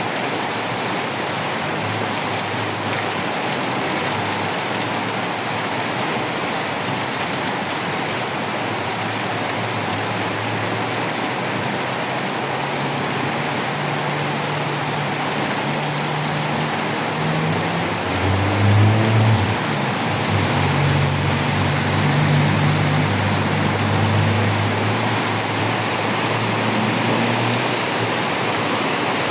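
Heavy rain pouring down with a steady rush of running water. A low engine hum comes in and grows stronger from about halfway through, shifting in pitch a few times.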